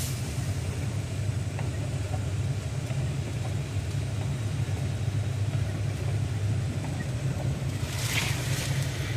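Vehicle driving along a wet road: a steady low engine and road rumble, with a brief hiss about eight seconds in.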